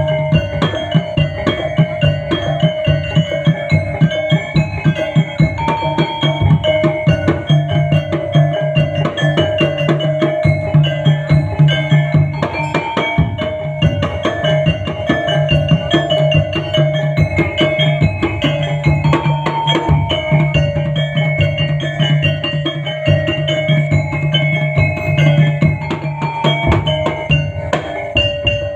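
Topeng Ireng accompaniment music: fast, dense drumming over steady held tones and a repeating melodic line.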